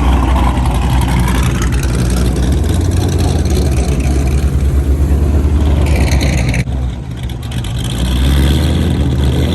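A car engine running loudly close by with a deep, low exhaust rumble. About two-thirds of the way through the sound drops off briefly, then builds back up.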